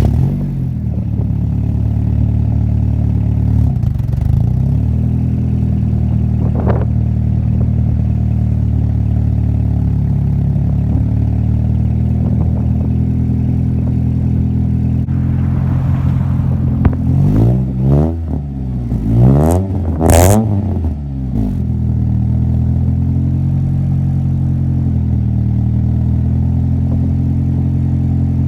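Honda Accord four-cylinder with a full stainless straight-pipe exhaust on its first cold start: it fires up suddenly at the very beginning and idles steadily. About two-thirds of the way through it is revved several times, each rev rising and falling, then settles back to idle; the owner says the cold idle needs to be blocked off.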